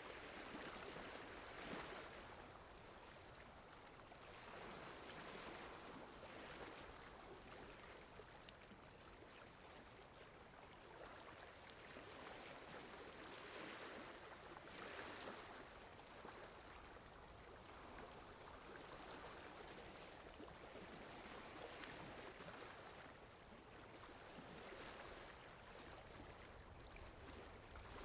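Steady rain falling, a soft even hiss that swells and eases every few seconds.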